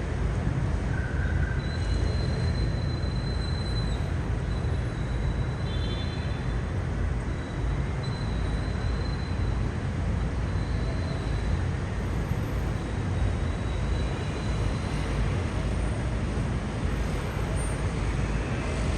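Steady rumble of city road traffic. A thin high whine comes and goes a few seconds in.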